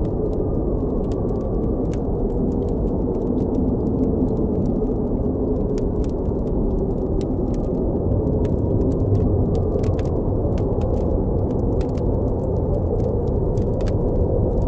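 Steady blizzard wind with a deep rumble and a faint whistling tone, over the crackle and pops of a campfire, many small snaps a second.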